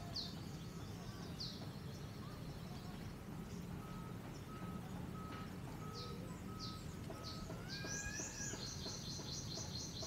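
Wild birds calling: scattered short sharp chirps, a run of evenly spaced whistled notes about two a second in the middle, and a fast trill starting near the end, over a steady low rumble.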